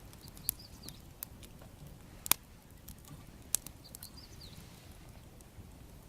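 Wood fire crackling: a few sharp, irregular pops from the burning logs, the loudest a little past two seconds in.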